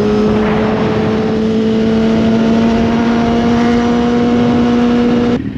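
High-revving sports engine pulling steadily, its note rising slowly and evenly in pitch, then cutting off suddenly near the end.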